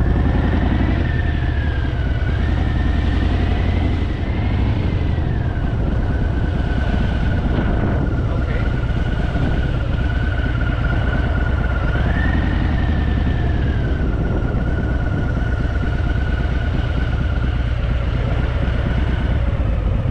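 Harley-Davidson motorcycle being ridden, its engine running steadily under a low rumble of wind and road noise. The engine note rises and falls slowly, climbing about two seconds in and again about twelve seconds in.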